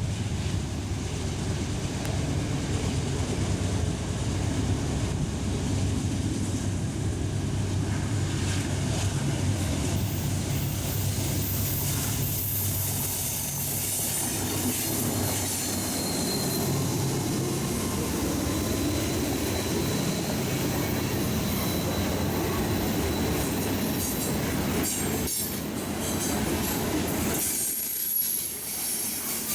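A train rolling past on the rails. A low steady engine hum dominates the first half, then the rolling noise of the cars takes over, with a thin high wheel squeal held through the middle stretch. The low rumble fades out near the end.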